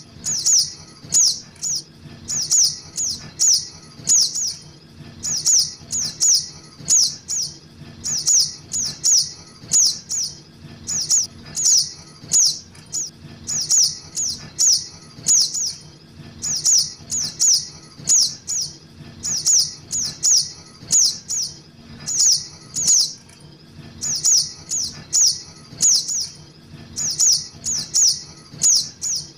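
Juvenile sogok ontong (little spiderhunter) calling, as used for luring: short, high chirps that fall in pitch, given in quick clusters of two to four and repeated steadily every second or two.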